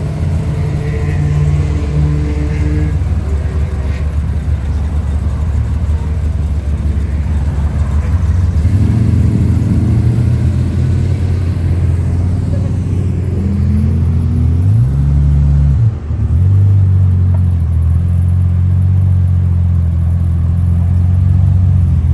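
Car engine idling with a deep, steady rumble. About fifteen seconds in it is briefly revved up and drops back.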